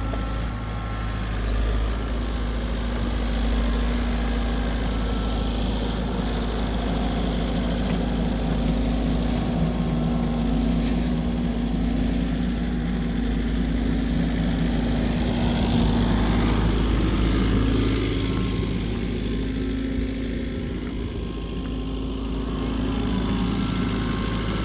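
Engine of a snow-clearing machine running steadily, a continuous low hum that rises slightly in level and falls back over the stretch.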